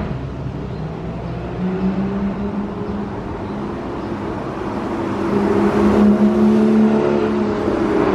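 Porsche 981 Cayman S flat-six engine and exhaust running at a fairly steady pitch, getting louder about five seconds in.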